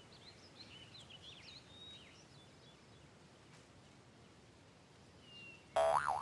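Faint birds chirping over quiet outdoor ambience, mostly in the first two seconds. Near the end there is a brief, louder vocal exclamation.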